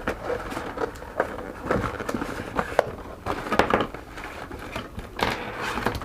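Packaging being handled and opened by hand: rustling of cardboard and plastic with scattered clicks and taps.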